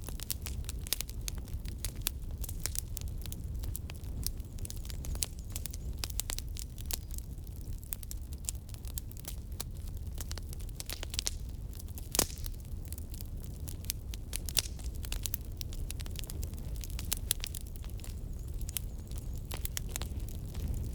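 Firewood burning, crackling with frequent small pops over a steady low rumble; one sharper pop about twelve seconds in.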